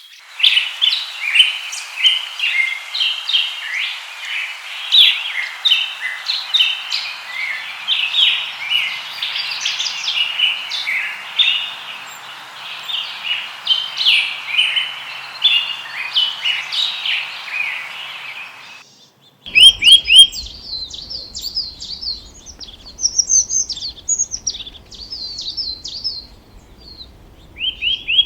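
Songbirds chirping and singing in quick, overlapping short notes over a steady hiss. About two-thirds of the way through, the sound cuts to sparser, higher-pitched chirps from a different recording, with a low rumble underneath.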